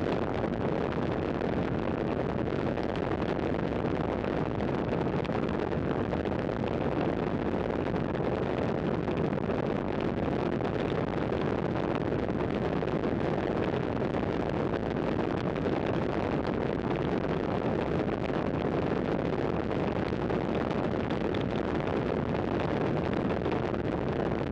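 Steady rush of wind over a camera microphone while riding a road bike at speed, mixed with tyre and road noise; the level holds even throughout.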